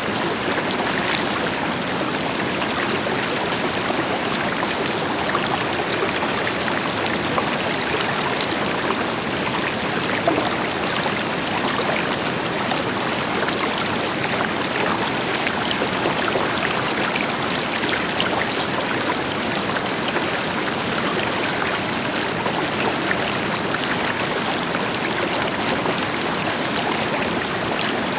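A river flowing steadily over rocks, with a constant rushing and fine splashing, backed by the deeper rush of a distant waterfall.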